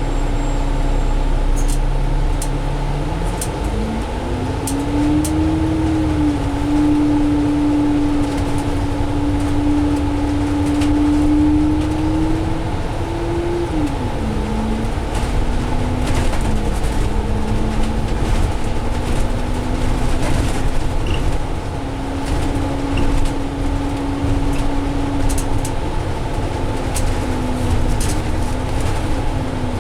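Cummins ISL diesel engine and Allison automatic transmission of a 2017 Alexander Dennis Enviro500 double-decker bus under way, heard from inside the bus. The engine note climbs over the first few seconds as the bus gathers speed, drops sharply about 14 seconds in as the transmission shifts up, then holds fairly steady, with light rattles throughout.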